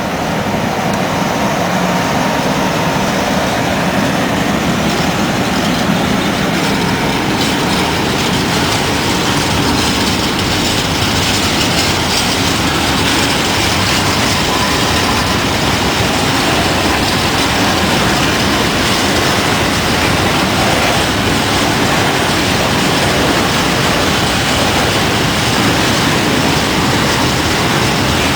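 Train running along a main-line railway track, a loud, steady rumble and rush of wheels on rails that swells in the first second and then holds.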